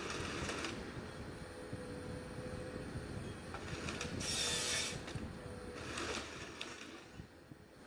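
Heavy forestry machinery running at a distance: a steady mechanical rumble with a faint steady whine, and a short hiss about four seconds in.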